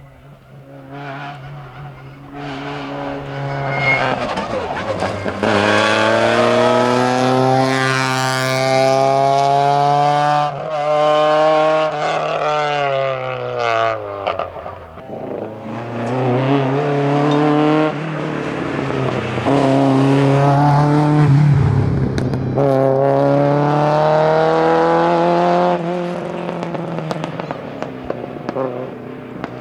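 Rally car engine driven flat out on a tarmac stage, its pitch climbing hard and dropping sharply several times as it shifts gear and brakes for corners.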